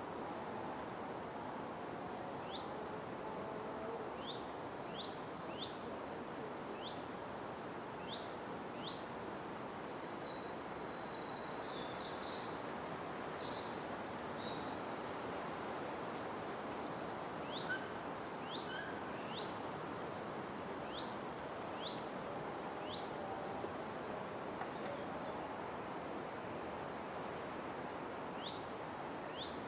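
Forest birds calling over a steady hiss. One bird repeats a call about every two seconds, a quick upward sweep followed by a held high thin note, with short rising chirps in between, and a busier run of rapid high notes about a third of the way in.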